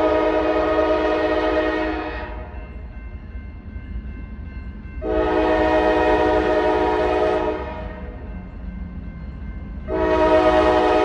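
Locomotive air horn of Norfolk Southern 9774 sounding three long blasts, a multi-note chord: the first ends about two seconds in, the second sounds in the middle, and the third starts near the end. A steady low rumble from the passing train fills the gaps between blasts.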